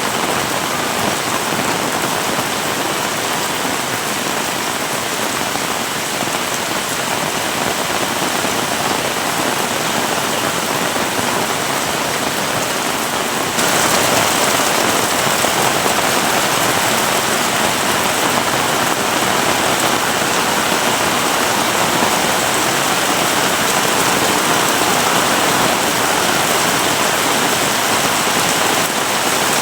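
Heavy rain falling steadily, a dense even hiss and patter; about halfway through it suddenly grows louder and brighter and stays so.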